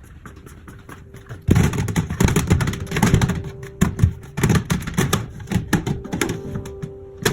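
Irregular clicking, knocking and clattering of containers and household items being handled and set down, with several louder knocks. Starts about a second and a half in.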